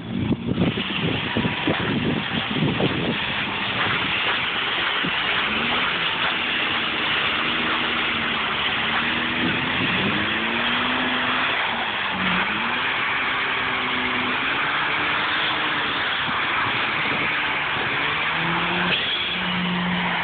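Mazda RX-8's rotary engine revving up and down repeatedly as the car spins donuts on snow, over a steady rushing noise. A few knocks come in the first three seconds.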